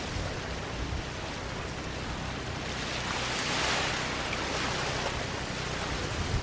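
Small waves washing onto a sandy beach as a steady hiss of surf, one wave swelling louder about halfway through, then easing off.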